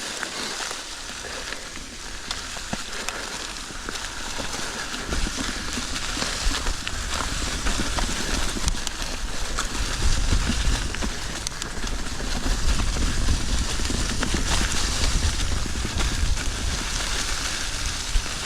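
Mountain bike being ridden along a rocky dirt trail: a steady rustle of tyres over dirt and stones with scattered clicks and rattles. A low wind rumble on the microphone grows stronger about five seconds in.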